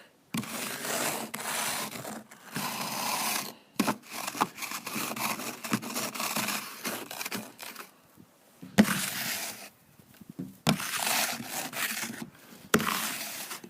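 Ice and packed snow crunching and scraping in bursts as frozen windshield wipers are worked loose from the glass by hand, with a few sharp cracks in between.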